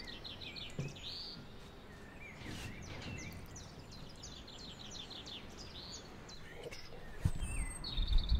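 Songbirds singing, with rapid runs of short repeated chirps and trills over faint outdoor background noise. A single louder thud comes near the end.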